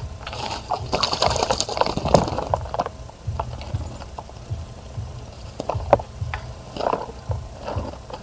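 Small birds splashing in a bird bath: a busy flurry of wing-flicking splashes in the first few seconds, then scattered lighter splashes and flicks of water over a low rumble.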